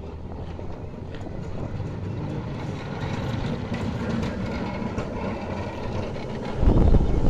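Old tram running on its rails, a low rumble growing louder as it comes closer, with scattered clicks and a loud low surge near the end.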